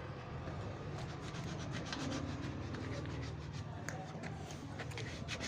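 Steady scraping noise with scattered light clicks over a low hum.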